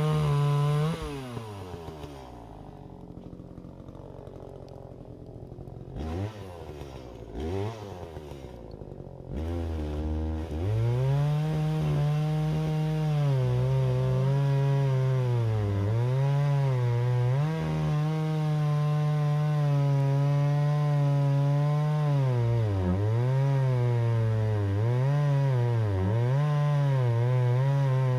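Two-stroke chainsaw at full throttle that drops to idle about a second in and is blipped twice. From about ten seconds it is held at high revs, its pitch sagging and recovering again and again as it cuts through wood.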